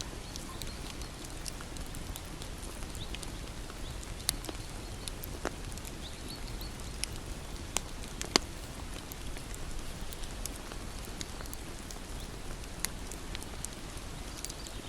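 Wood bonfire crackling: a steady hiss with irregular sharp pops, the strongest a little after four seconds in and around eight seconds in.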